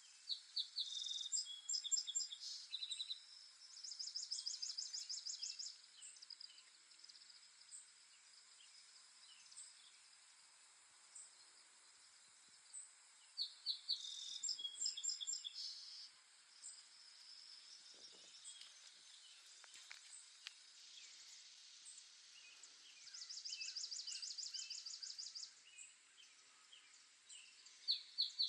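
Songbirds singing in short bursts of rapid, high chirps and trills, a phrase every several seconds, over a steady faint background hiss.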